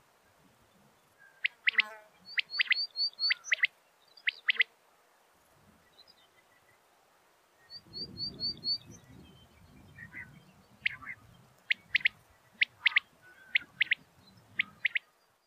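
Common quail calling, sharp clipped notes in quick groups of two or three, repeated. Twice, a fast run of five higher chirps comes in among the calls, and a low rumble of background noise comes in about halfway through.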